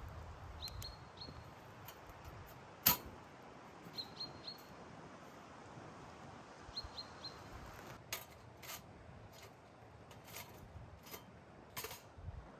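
Steady rain noise with scattered sharp taps, the loudest about three seconds in, and a small bird giving short high chirps in three quick groups of about three.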